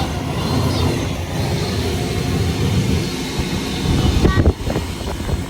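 Drill-spun dryer vent cleaning rods and brush rumbling and rattling inside the vent duct, with a few louder knocks about four seconds in.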